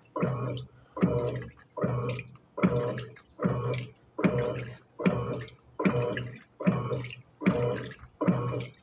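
Electrolux Turbo Economia 8 kg top-loading washing machine agitating a double duvet in water, sloshing and swishing each time the agitator turns, a little more than once a second, over a low motor hum. The heavy load is being turned at the medium water level.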